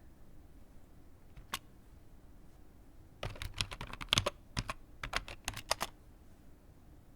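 Computer keyboard typing: a single keystroke about a second and a half in, then a quick run of keystrokes lasting under three seconds, as a word is typed out.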